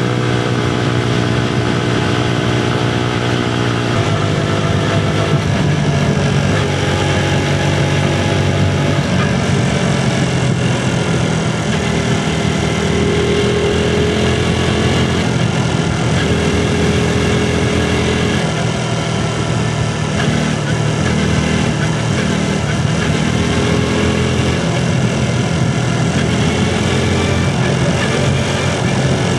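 Motorcycle engine running under way, its pitch stepping up and down several times as the revs change.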